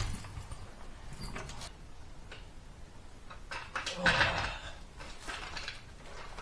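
Intermittent handling noises of car-lifting gear: a few short clunks and scrapes, loudest about four seconds in.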